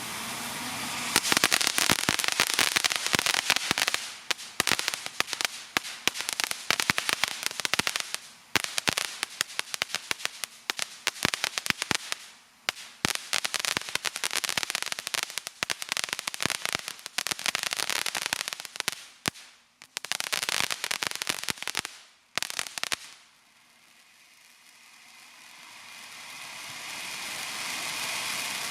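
Fireworks crackling: a dense stream of rapid sharp pops that runs for about twenty seconds and stops abruptly, followed by a steady hiss that swells near the end.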